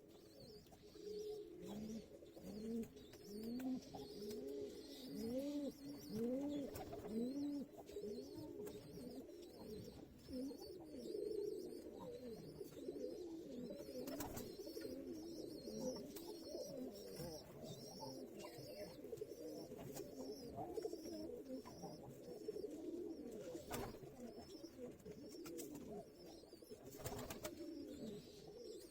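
Several pigeons cooing, with many arched calls overlapping one another continuously, and a few sharp clicks scattered through.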